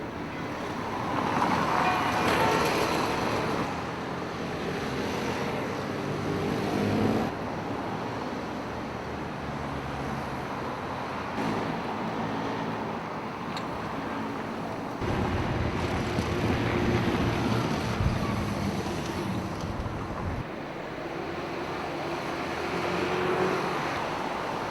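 Street traffic: motor vehicles passing, swelling and fading, with a few abrupt changes in the background sound.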